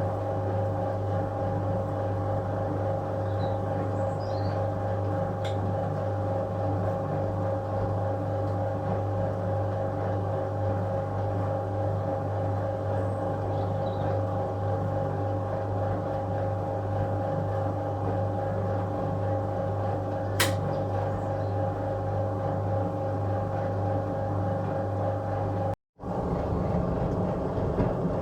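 1966 Bendix LA automatic washing machine running its wash: a steady motor hum with the drum turning, and one sharp click about twenty seconds in.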